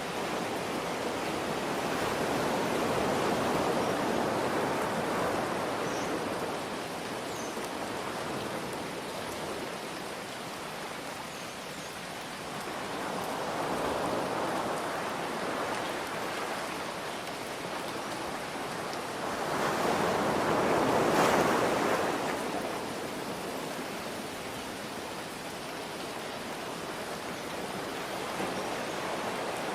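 Ocean waves surging and washing in over a steady hiss of rain, swelling about three times, the loudest surge a little past two-thirds of the way through.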